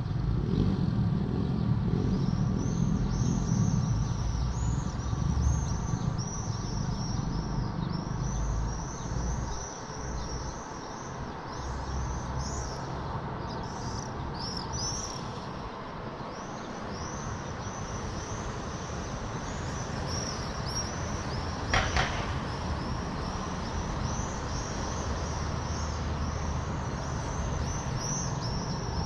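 Swifts screaming in a rapid, continuous chorus of short, high, downward-sweeping calls, over a steady low rumble of city traffic. One brief sharp sound stands out about two-thirds of the way through.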